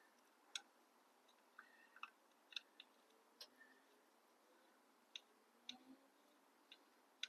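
Faint, scattered metal clicks and taps, about nine over several seconds, some with a brief ring, as a bolt is put back into the exhaust mounting.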